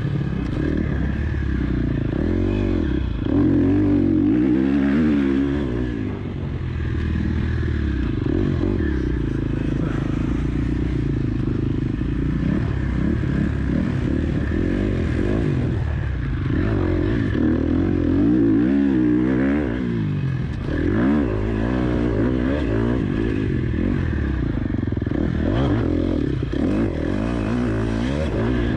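KTM 250 SX-F motocross bike's single-cylinder four-stroke engine being ridden hard, revving up and dropping back again and again, its pitch rising and falling every few seconds.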